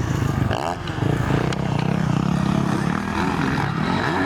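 Motocross dirt bike engines racing, revving up and down, with the pitch dropping and climbing again about half a second in and rising near the end.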